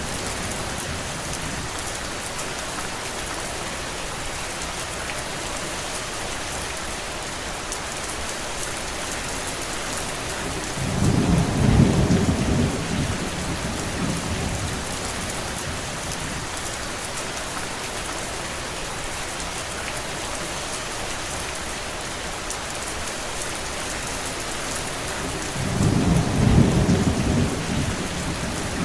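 Steady rain hissing, with a low rumble of thunder swelling and fading twice: about eleven seconds in, and again near the end.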